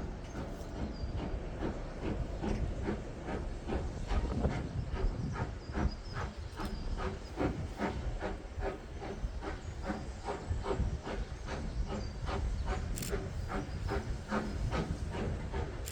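Steam locomotive working under steam, its exhaust beating evenly at about three a second over a steady hiss of steam.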